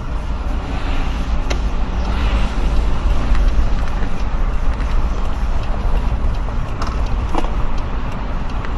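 Truck running on the road, heard from inside the cab: a steady engine and road rumble, with a few small clicks and creaks from the cab.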